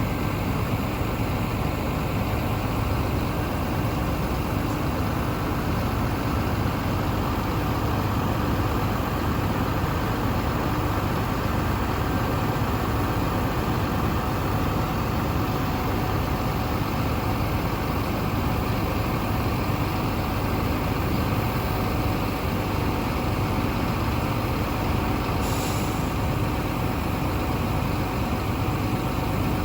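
Heavy truck diesel engine running steadily at idle, with a short hiss about 25 seconds in.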